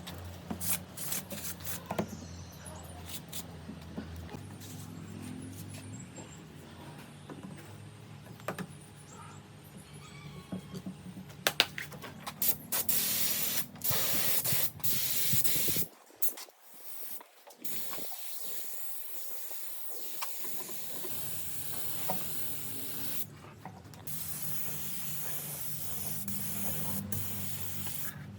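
Air hissing in bursts that start and stop, with scattered clicks and knocks, over a low steady machine hum.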